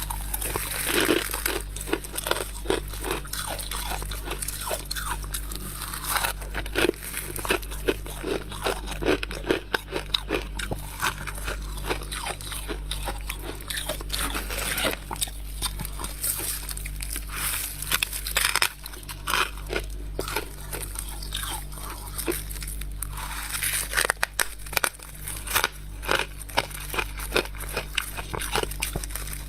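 Close-miked biting and chewing of freezer frost: dense, irregular crunching and crackling.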